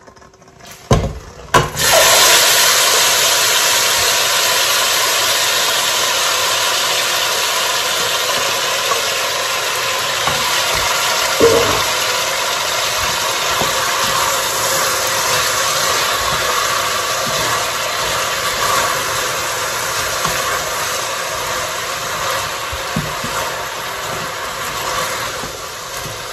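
Chicken wings and vegetables tipped into hot oil in a stainless steel pot: a few clatters, then a loud sizzle that starts suddenly about two seconds in and keeps going steadily, slowly easing, while a spatula stirs with an occasional knock against the pot.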